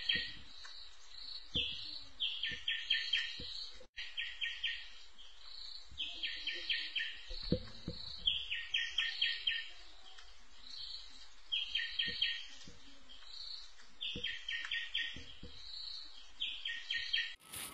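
A bird calling the same phrase over and over, a quick run of four or five sharp notes, repeated every two to three seconds. Soft low thuds sound here and there between the calls.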